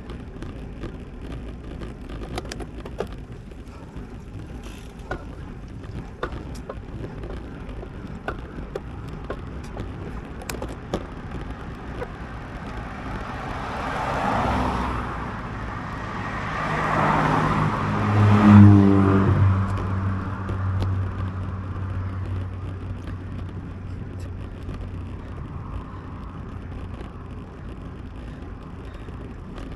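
Steady wind and road noise from a moving road bicycle. Motor vehicles pass close by twice, about 14 and 18 seconds in; the second is the loudest, its engine note falling in pitch as it goes by.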